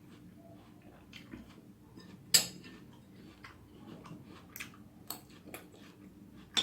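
Eating utensil clinking and scraping against a plate of noodles: one loud clink about two and a half seconds in, then a few lighter taps later on.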